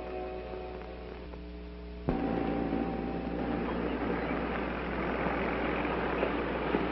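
A held music chord for the first two seconds, then an abrupt cut to a steady car engine running as the car moves slowly along a street, over a constant hiss and low hum.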